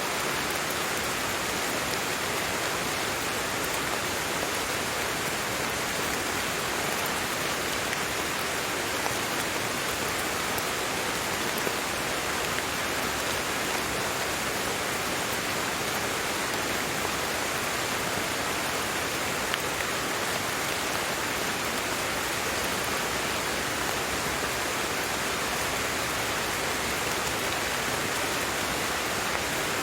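Steady rain falling, an even hiss with a few faint drop ticks and no change in intensity.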